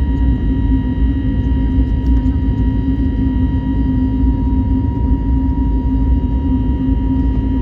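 Airbus A321neo cabin noise: a steady rumble of the jet engines and rushing air, heard from inside the cabin, with a faint steady whine riding over it.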